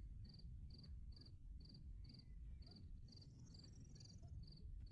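Faint cricket chirping steadily, about two short high chirps a second, over a low rumble.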